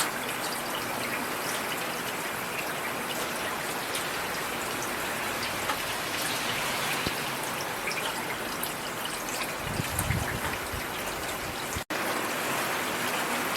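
Steady rain falling, with many individual drops heard as fine ticks over a continuous hiss. A brief low rumble rises about ten seconds in, and the sound cuts out for a split second near the end.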